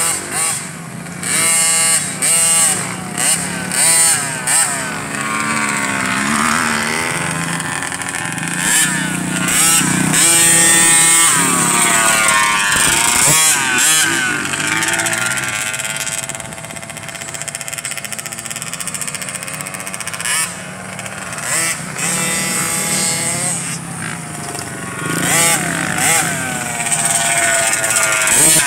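Small two-stroke youth motocross bikes racing on a dirt track, engines revving up and down through the turns, with the pitches of more than one bike overlapping at times.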